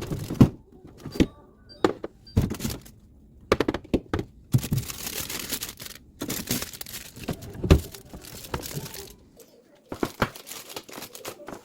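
Kitchen handling sounds: irregular knocks and clicks mixed with rustling and crinkling, like packaging and containers being handled.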